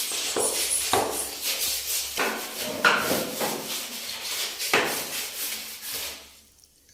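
Stiff scrubbing brush with dishwashing soap scrubbing a bathroom floor in uneven rasping strokes, stopping shortly before the end.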